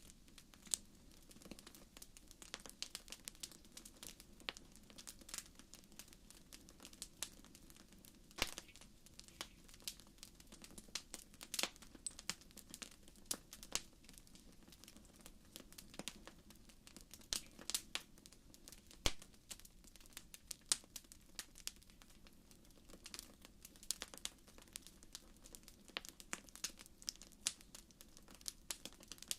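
Wood fire crackling in a fireplace: irregular sharp pops and snaps, a few louder ones, over a faint low rush of the flames.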